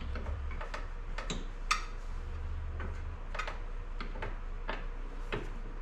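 Hand ratchet clicking as a bolt is turned in, in a run of short, sharp clicks about two to three a second.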